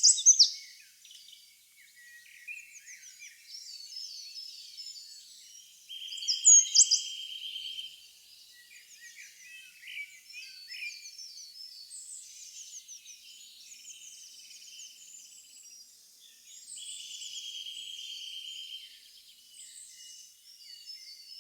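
A chorus of small birds chirping: many short, overlapping high calls, loudest just after the start and about six seconds in, with two longer buzzing trills held for a couple of seconds each.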